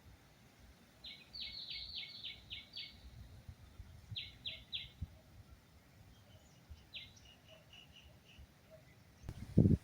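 A bird calling in bouts of quick, sharply falling notes: a run of about eight, then three, then one followed by a softer rapid series. Loud low muffled thumps come near the end.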